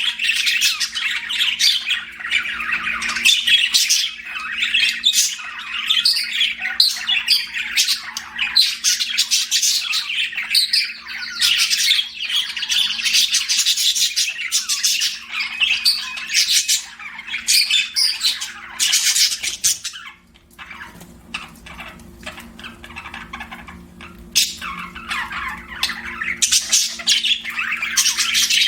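Budgerigars chirping and chattering in a dense, fast stream of chirps and squawks. The chatter eases to quieter chirps about two-thirds of the way through, then picks up again near the end.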